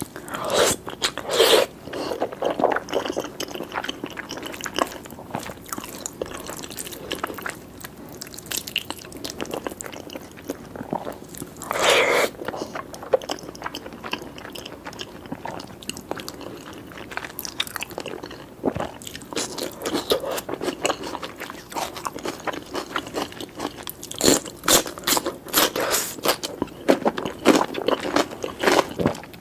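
A person chewing and biting food close to the microphone, with crunching bites among the steady chewing. Louder bites come about a second in, around twelve seconds in, and repeatedly near the end.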